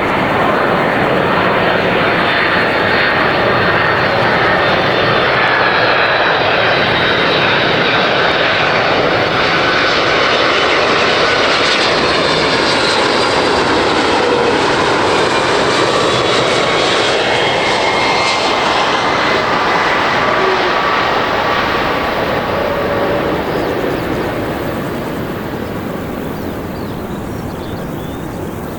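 A jet airliner's engines passing close by: a loud, steady noise with whining tones that fall in pitch about two-thirds of the way through, then fading over the last few seconds.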